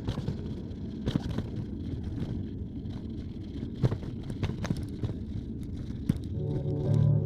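Bicycle riding along a road: steady tyre and wind rumble with scattered sharp clicks and rattles. Music comes in near the end.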